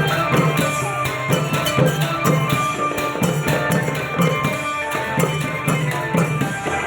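Thai klong yao long-drum band playing: a fast, steady rhythm of drum strokes with ringing metal percussion over it.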